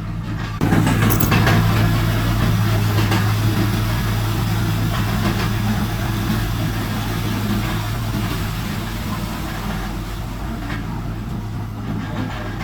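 Heavy diesel engine of earthmoving machinery running steadily with a low hum. About half a second in, a louder, rougher noise comes in on top and slowly eases off.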